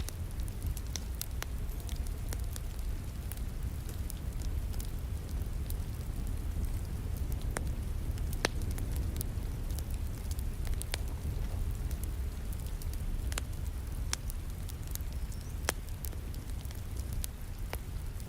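Wood fire crackling with frequent sharp pops scattered irregularly, over a steady bed of rain and a low rumble of the burning fire.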